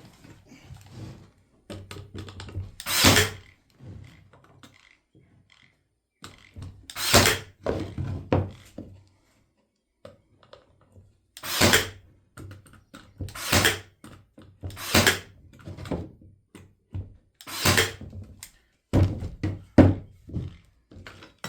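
Nail gun firing nails into wood, about seven sharp shots spaced two to four seconds apart, with softer knocks of wood being handled between them.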